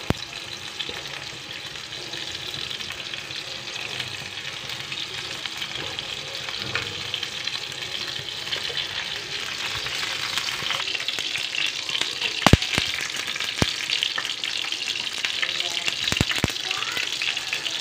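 Potato-and-chicken cutlets shallow-frying in hot ghee and oil on a tawa griddle: a steady sizzle that grows louder as more patties are laid in. A few sharp clicks of a metal spatula against the griddle near the end.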